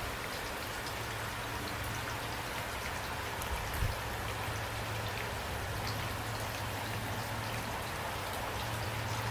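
Steady rain with individual drops pattering and ticking, a steady low hum underneath, and a brief low thump about four seconds in.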